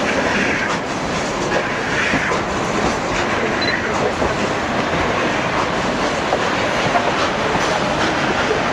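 Narrow gauge passenger train running along the track: the steady rumble and rattle of the coach, with scattered clicks of the wheels over the rails.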